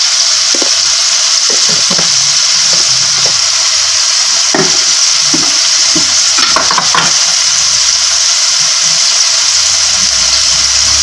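Chopped onion and carrot frying in hot oil, a steady loud sizzle. A wooden spoon stirs the mixture, adding scattered scrapes and taps against the pan.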